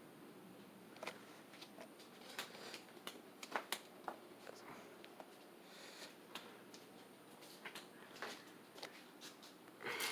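Quiet room tone with scattered, irregular small clicks and rustles.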